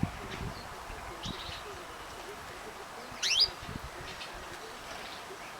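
Caged canary chirping: a short faint call about a second in, then a louder, quick rising chirp about three seconds in, with a few soft thumps around it.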